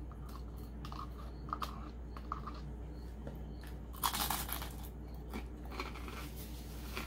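A crunchy bite into a piece of crostini bread dipped in harissa olive oil about four seconds in, followed by chewing. Before the bite, a few small clicks and taps as the bread is dipped in a plastic tub.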